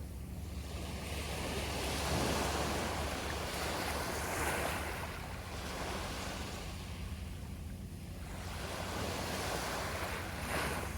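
Sea waves breaking and washing on the shore, the rush swelling and fading every few seconds, with a steady low rumble of wind on the microphone underneath.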